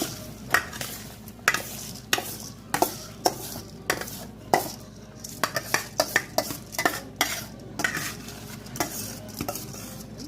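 A spoon scraping and clinking against a pot in irregular strokes as washed rice is added to and worked into chicken cooking in its own juices.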